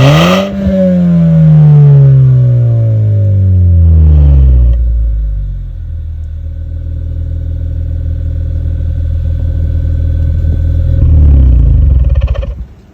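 Honda Vezel engine with a Mugen aftermarket muffler, revved sharply once and then falling back to a steady idle over a few seconds. Near the end it gets a second short blip of the throttle before the sound cuts off suddenly.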